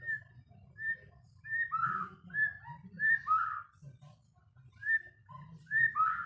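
White-rumped shama giving a series of short, clear whistled notes, often a higher note followed at once by a lower one, with a brief pause midway.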